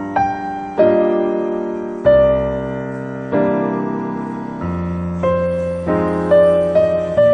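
Slow, gentle solo piano music: chords and single notes struck about once a second, each left to ring and fade.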